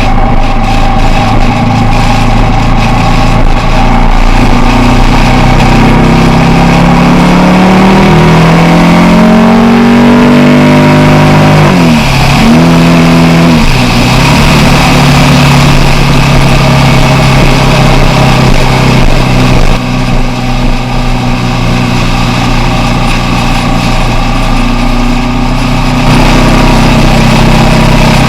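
Motorcycle engine under way, its pitch climbing in steps through gear changes, dipping sharply and picking up again about twelve seconds in, then holding steady at cruising speed. Wind rush runs over the microphone throughout.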